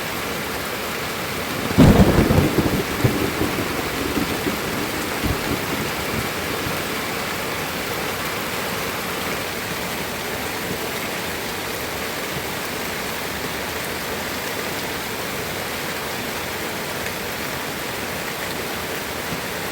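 Steady rain falling, with a sudden loud thunderclap about two seconds in that rumbles away over the next few seconds.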